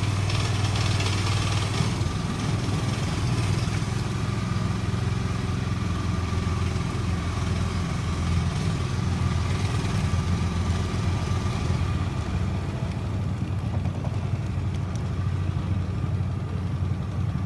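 An engine running steadily at a low, even pitch, with no revving.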